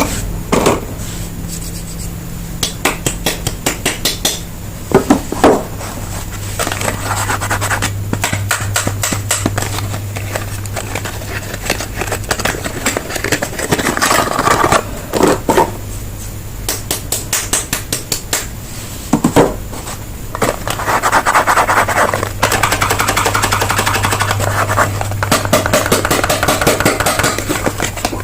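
Bars of soap being unwrapped and handled: wrappers crinkling and rustling, with many sharp taps, clicks and scrapes.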